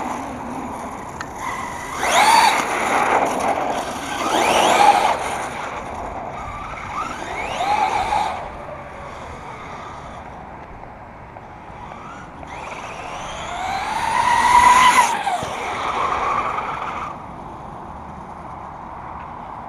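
Electric 1/5-scale Redcat Rampage MT V3 monster truck on 8S power driven hard in several runs. The motor whines up and down in pitch over a rush of tyre noise, and it is loudest in two passes, a few seconds in and again about three-quarters of the way through.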